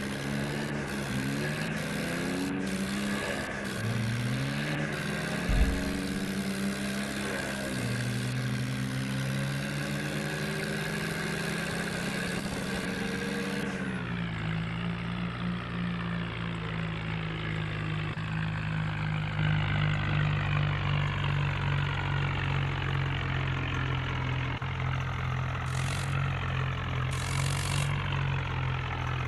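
John Deere tractor's diesel engine running, its pitch shifting up and down through the first half, then settling to a steady lower note from about halfway. A single thump about five and a half seconds in.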